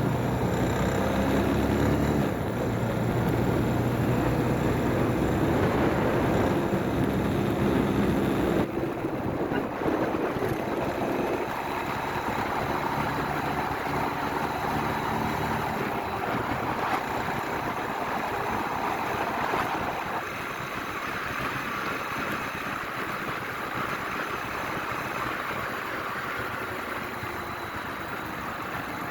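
Motorcycle engine running while riding, with road and wind noise. The engine note steps to a new pitch several times, around 2, 9, 12 and 20 seconds in, as speed and gear change.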